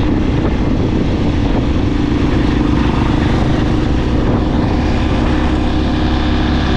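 Motorcycle running steadily at road speed while being ridden, with a constant engine hum.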